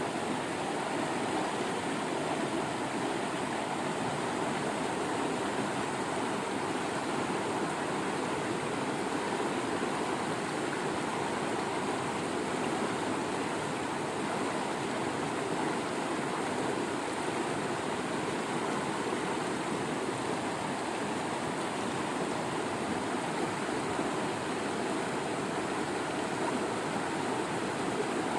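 Waterfall: a steady rush of falling, flowing water, unchanging throughout.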